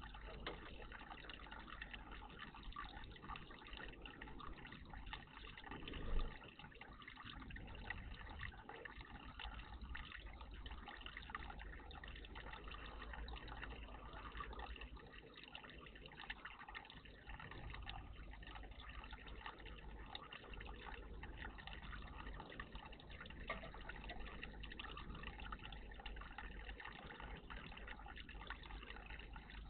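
Water running and trickling steadily in a bird bath, with one brief louder sound about six seconds in.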